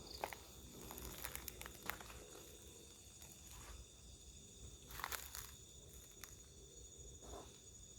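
Faint scattered crackling and rustling in dry undergrowth, loudest about a second in and around five seconds, over a steady high chirring of night insects.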